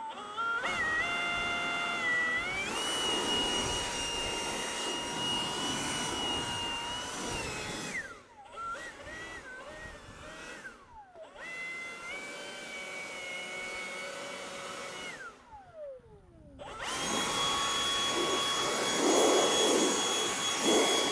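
Handheld blower running in bursts to dry water off a headstone. Its motor whine rises as it spins up and glides down each time it is let off, with the loudest burst starting near the end.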